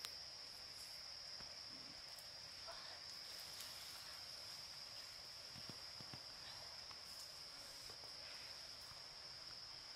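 Faint, steady high-pitched insect drone, like crickets or cicadas, with a few soft scattered clicks.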